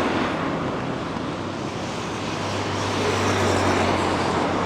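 Road traffic: a steady rush of passing vehicles, with an engine hum growing louder about two and a half seconds in and easing off near the end.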